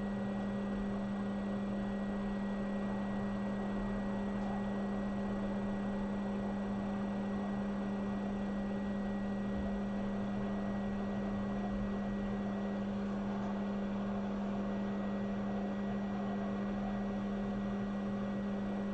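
Hot air rework station blowing steadily while reflowing an audio codec chip onto a phone logic board: a constant hum with a faint airflow hiss.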